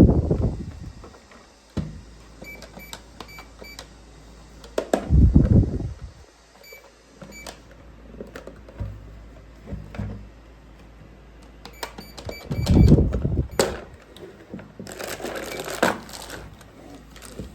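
Plastic toy microwave oven being handled: dull knocks and clunks, with two runs of short high electronic beeps from its buttons, and a rustling near the end.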